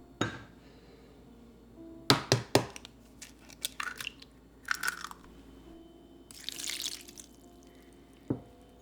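Scattered light knocks and clicks of objects being handled, with a brief rustle or hiss about six and a half seconds in.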